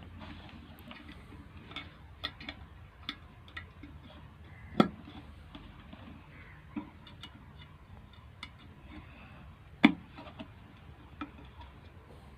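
Scattered small clicks and taps of hands working on an electric kettle's wiring, reconnecting its connectors, with two louder knocks about 5 and 10 seconds in.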